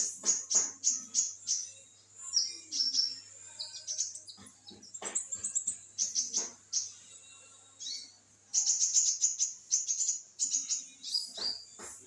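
Kolibri ninja (a sunbird) singing vigorously: rapid runs of sharp, high-pitched chirps and twitters, with a brief pause about seven seconds in before a dense burst of song.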